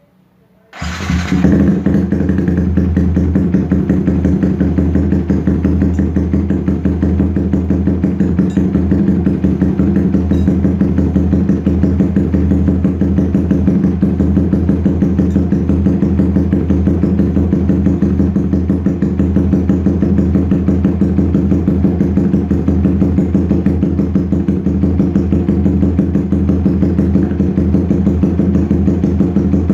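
Motorcycle engine starting about a second in, then idling steadily through an SC Project S1 aftermarket exhaust with the dB killer removed, warming up.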